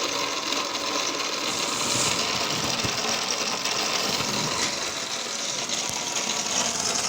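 Stirling engine running at a steady speed, an even, fast mechanical whirring clatter, driving a generator.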